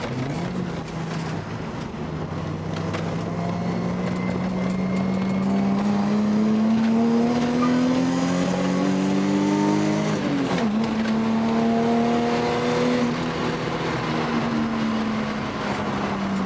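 Car engine pulling under steady load, its pitch rising slowly for about ten seconds, dipping briefly, then holding nearly steady.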